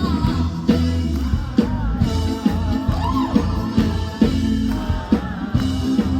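Live band music with a woman singing a melody over a steady drum beat.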